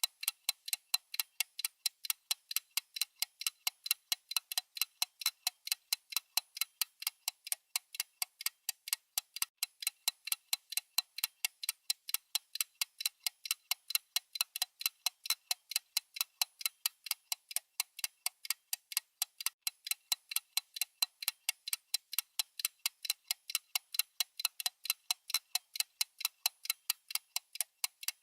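Countdown timer's clock-like ticking sound effect: light, sharp ticks at an even pace of about three a second.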